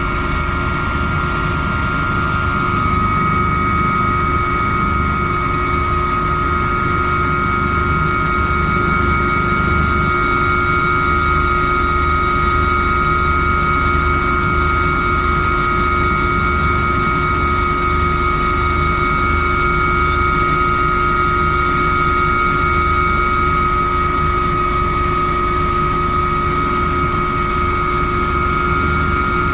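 A steady machine drone with a constant high whine, running unchanged.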